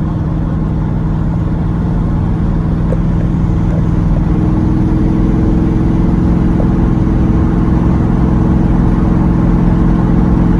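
A car engine running steadily with a deep rumble, the pitch edging up slightly about halfway through, then cutting off abruptly.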